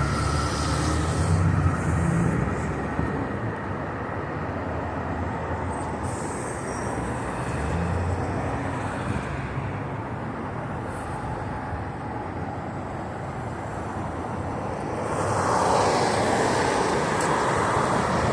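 Outdoor street ambience with road traffic: a steady wash of vehicle noise with low engine rumble, swelling louder near the end as a vehicle passes close by.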